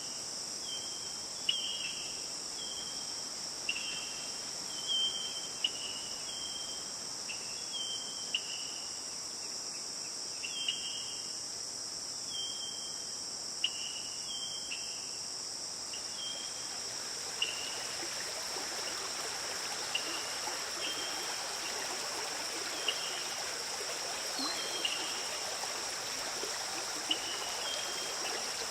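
Steady high-pitched insect chorus with short chirps repeating about once a second. From a little past halfway, the even rush of a flowing stream comes in underneath.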